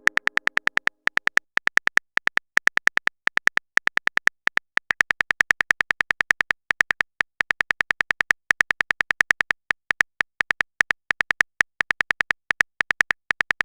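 Rapid tapping clicks of a phone keyboard typing sound effect, in quick runs with short pauses between them.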